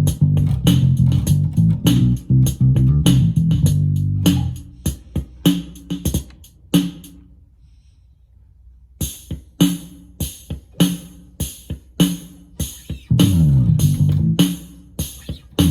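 Electric bass guitar played through a Roland Micro Cube Bass RX amp over its built-in rhythm-box drum pattern. The bass drops out about four seconds in, and the drums stop for about two seconds in the middle. The drum pattern then restarts, and the bass comes back in near the end.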